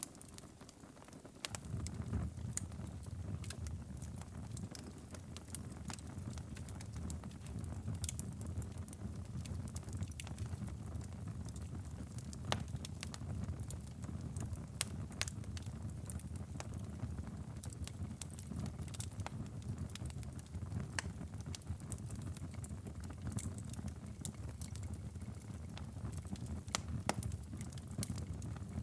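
Wood fire in a fireplace crackling, with irregular sharp pops over a low steady rumble. The rumble is briefly absent at the start and comes back about a second and a half in.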